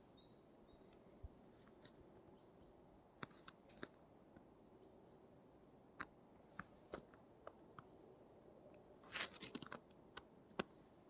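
Quiet winter forest: faint scattered clicks and crackles, a short cluster of them near the end, and a few brief, thin, high peeps repeated at the same pitch.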